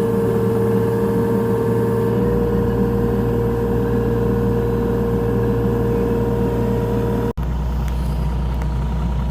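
Mini excavator's diesel engine running steadily, with a steady high tone over it. About seven seconds in, the sound drops out for an instant and resumes with a deeper engine note and without the tone.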